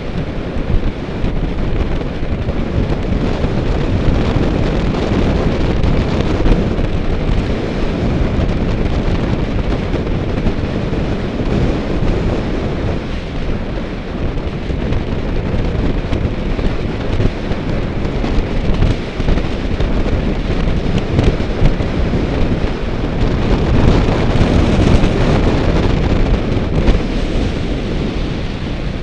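Wind buffeting the microphone of a camera riding on a moving bicycle: a loud, steady rushing noise with gusty peaks.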